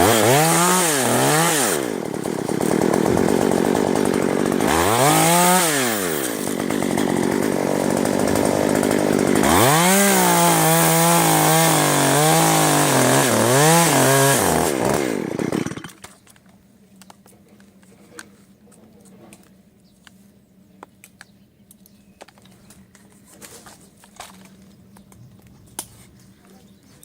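Chainsaw running hard, its engine revving up and down several times between steady full-speed stretches while cutting wood. It shuts off abruptly a little over halfway through, leaving only faint small clicks and rustles.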